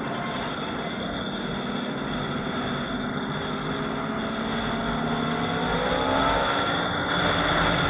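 Motorcycle engines running under a steady rush of wind and road noise, with an engine's whine rising in pitch from about six seconds in as it accelerates.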